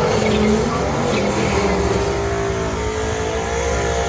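Race car's engine at full throttle on a drag-strip pass: a loud, steady run, with a thin high whine over the first two seconds.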